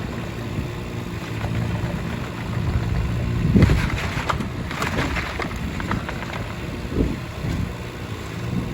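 Kubota U10-3 micro excavator's diesel engine running, with louder noisy swells about halfway through and again near the end, and wind on the microphone.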